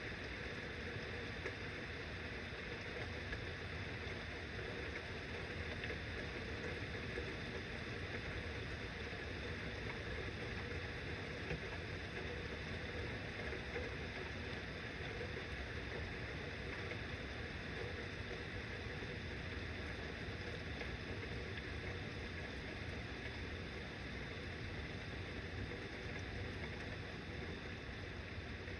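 Rain falling steadily, an even hiss that holds level throughout.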